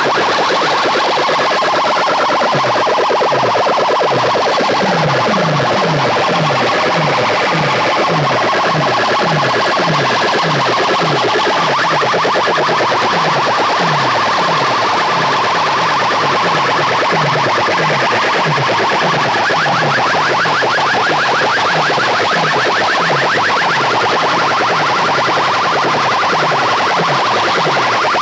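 DJ competition music blasting at a steady high level from large speaker-box sound systems, with short falling bass sweeps repeating about one and a half times a second over a dense, crowded upper layer.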